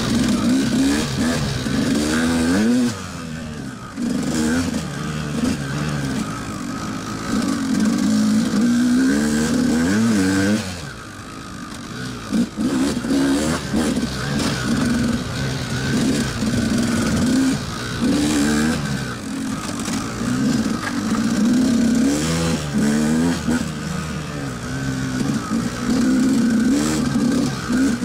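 KTM enduro motorcycle's single-cylinder engine being ridden hard, revving up and down over and over as the throttle opens and closes. The engine note drops off briefly about three seconds in and for a longer stretch around eleven seconds.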